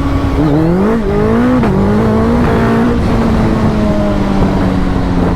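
Suzuki Hayabusa's 1340 cc inline-four with an aftermarket full exhaust (IXIL headers, Yoshimura end cans) pulling hard under full throttle. The note climbs sharply and drops twice in the first couple of seconds as it upshifts, then holds high and nearly steady. The quickshifter is sticking a little, which the rider puts down to dirt.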